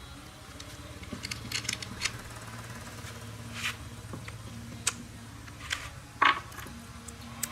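Scattered short clicks, knocks and scrapes from handling tools and motorbike parts, over a low steady hum. The sharpest knock comes a little after six seconds in.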